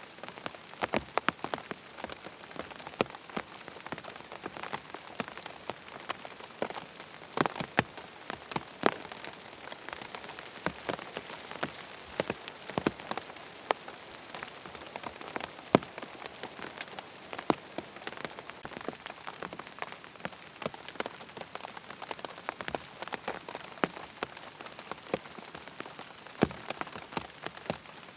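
Steady rain, an even hiss with many sharp, irregular drips and pops scattered through it.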